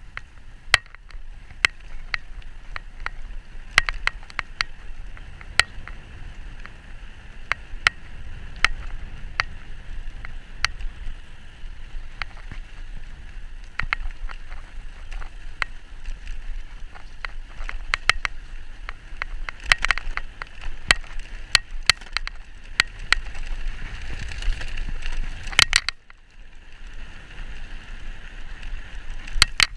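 E-bike riding along a rough canal towpath: steady tyre and wind noise with frequent sharp clicks and rattles, easing off briefly about four seconds before the end.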